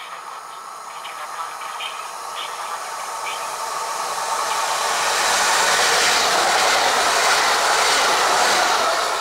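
Pesa Elf electric multiple unit running through a station at speed without stopping: a rush of wheel and rail noise that builds as it approaches, is loudest as it passes close by, and begins to fall away near the end.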